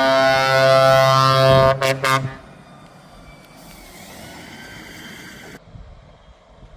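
Truck air horn sounding one loud blast that ends in two short toots, about two seconds in. Quieter vehicle noise follows.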